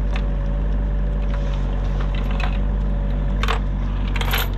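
A heavy machine's engine running steadily, with a series of sharp metallic clinks and clanks from the grapple and lifting gear, the loudest two near the end, the last one ringing briefly.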